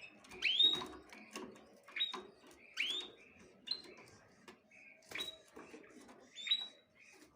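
Small birds chirping: a series of short, sharply rising calls, about seven over several seconds at irregular spacing.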